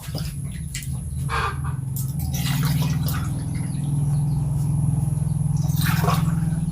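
Birds chirping in short calls over a steady low hum, with a thin high insect-like whine held throughout.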